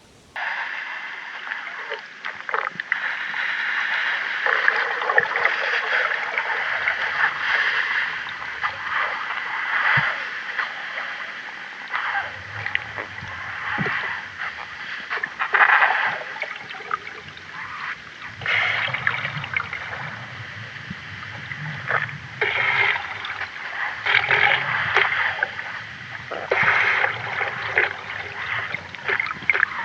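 Water splashing and gurgling in irregular surges, with no voice or call standing out.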